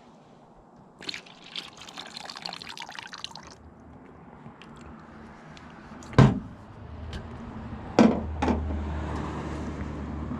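Liquid pouring and splashing as a boat engine's water pump is drained of the rust-remover solution it was soaking in. Two sharp knocks follow, and a low steady hum comes in near the end.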